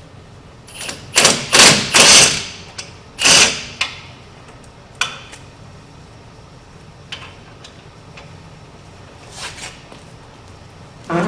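Loud bursts of tool noise from work on a truck's wheel hub: four in quick succession about a second in, another just after three seconds, then a few lighter knocks.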